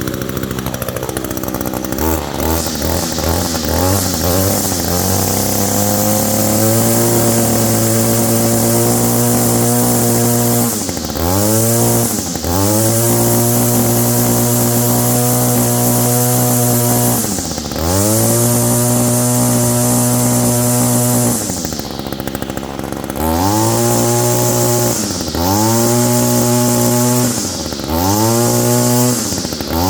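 Echo GT225 string trimmer's small two-stroke engine running. It climbs from a lower speed over the first few seconds to a steady high speed, then drops sharply and climbs back about seven times as the throttle is let off and squeezed again. It is running on its original spark plug and air filter, with no tune-up in eleven years.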